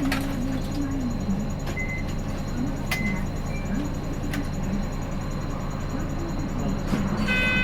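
Hino Blue Ribbon City city bus idling at a stop, a steady low engine hum, with scattered clicks and several short high electronic beeps from the onboard equipment as passengers get off. Near the end comes a longer beep made of several tones at once.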